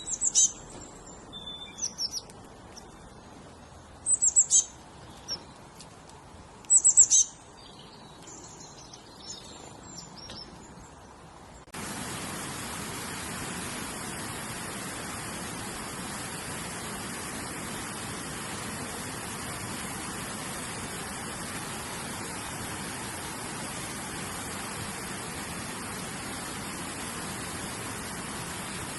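A bird calling in short, loud chirps made of quick falling whistles, in small clusters over the first dozen seconds above a faint background hiss. About twelve seconds in, the sound cuts abruptly to a steady, even hiss with no bird calls.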